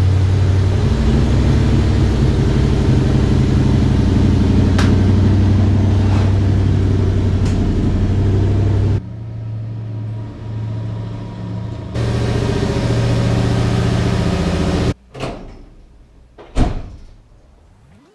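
Nissan VH45DE V8 in a 240SX idling steadily while it warms up, its level dropping and returning abruptly a few times. Near the end come two sharp knocks.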